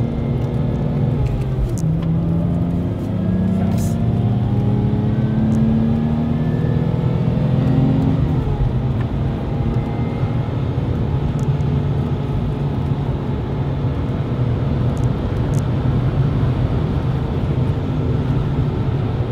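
Supercharged straight-six engine of a Lexus IS200 TTE Kompressor heard from inside the cabin, rising in pitch as the car accelerates for several seconds, then running steadier at speed over tyre and road noise.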